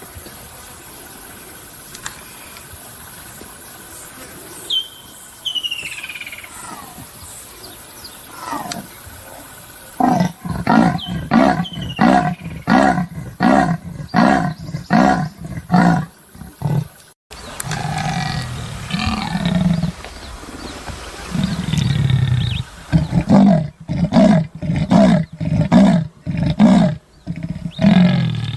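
Leopard giving its sawing call: a long series of deep, rasping grunts at about two a second, starting about ten seconds in. After a break with a few softer grunts, a second series follows near the end. Before the first series there are only a few faint bird chirps.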